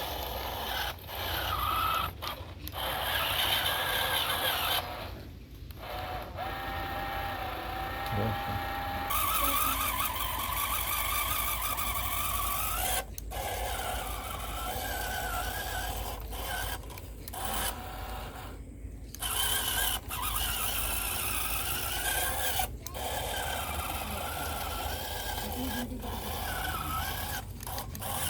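Homemade mini tractor's small motor and gears whining, the pitch wavering up and down, with scraping from its front blade, broken by several sudden cuts.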